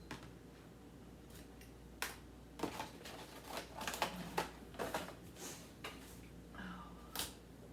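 Scattered clicks, taps and light crinkles of food containers and packaging being handled and moved around inside a refrigerator, bunched in the middle of the stretch.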